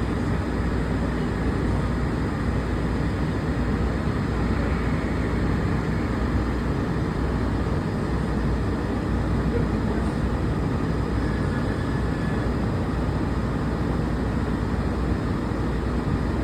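Walt Disney World monorail train running along its beam, heard from inside the passenger car: a steady low rumble and hum of the moving train.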